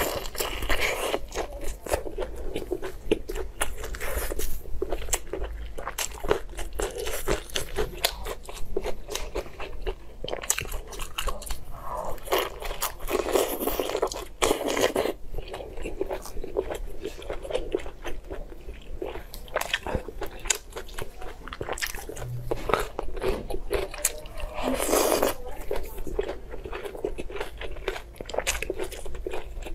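Close-miked eating: biting into and chewing glazed braised pork intestine rolls, a dense irregular run of sharp mouth clicks and smacks.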